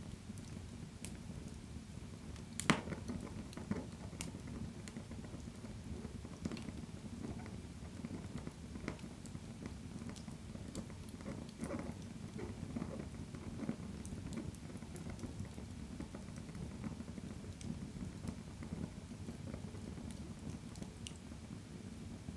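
Fire burning in a fireplace: a steady low rumble of flames with scattered crackles and pops, the sharpest pop about three seconds in.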